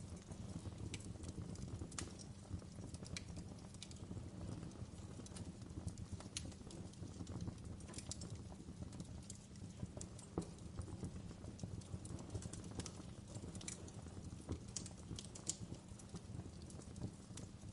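Log fire crackling and popping: irregular sharp snaps over a low, steady rumble of burning wood.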